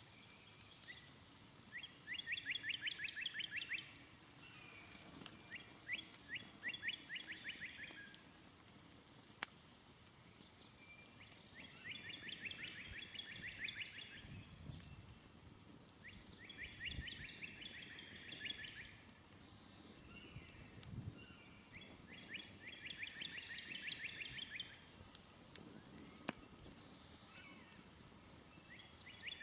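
A songbird singing the same quick trilled phrase over and over, each phrase lasting about two seconds and coming every four to six seconds, over a few faint pops from a smoldering campfire.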